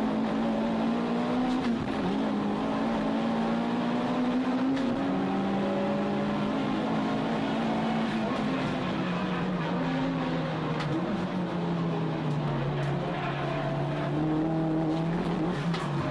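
Toyota Starlet Glanza EP91's 1.3-litre four-cylinder engine driven hard on track, heard from inside the stripped race-car cabin. The revs climb, drop sharply about five seconds in, sink slowly through a corner, then pick up again near the end.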